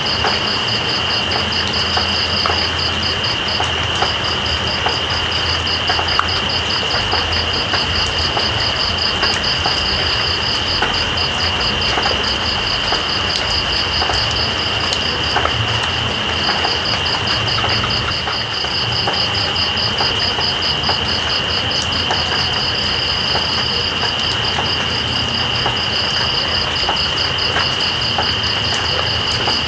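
Steady rain with night insects calling over it: one insect gives a continuous high trill while another, a little higher, chirps in a rapid even pulse that stops briefly twice. Scattered drop ticks sound through the rain.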